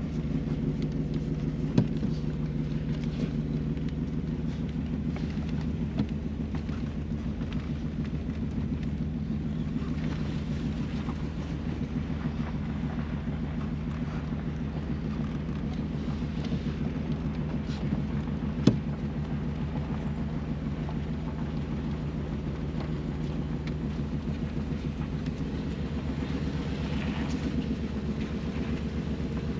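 A 1965 Bentley S3's V8 engine running steadily at an even pitch, heard from on board the car, with a couple of small clicks.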